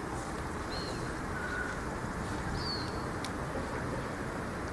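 A few brief bird calls, short chirps about a second in and again near three seconds in, over a steady outdoor background noise.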